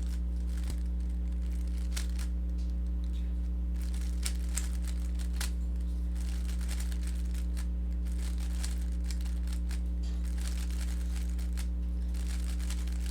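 Rubik's cube being turned quickly through an algorithm: many short plastic clicks and scrapes of its layers, scattered irregularly. A steady low electrical hum runs underneath.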